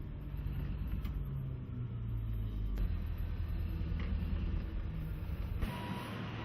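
Caterpillar 777 haul truck's diesel engine running with a low rumble, its note rising and falling in the first few seconds. Near the end the sound changes abruptly and the truck's reversing alarm starts beeping.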